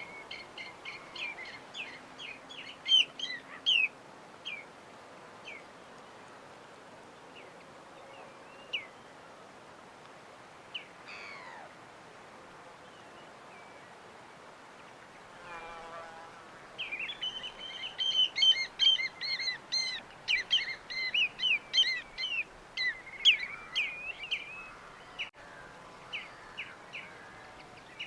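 Small birds chirping in quick runs of short, high notes: a busy flurry at the start and a longer, denser one about two-thirds of the way in, with a few scattered calls between, over a faint steady hiss.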